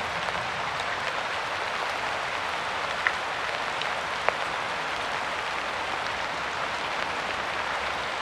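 Steady rain falling, a dense even hiss of drops with scattered individual drip ticks; two louder single drops strike about three and four seconds in.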